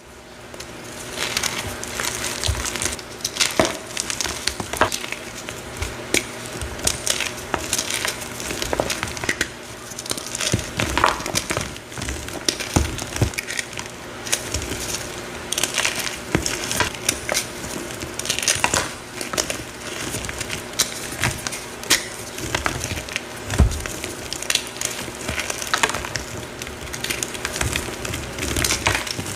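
A reformed, heart-shaped powdery block being crushed and crumbled, with a steady run of irregular crunches and crackles.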